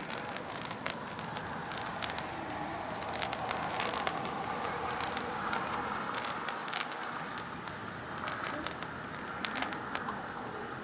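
Distant fireworks from a Firing Squad Jumbo Roman candle item: scattered sharp pops and crackles at irregular intervals, over a steady rush of wind on the microphone.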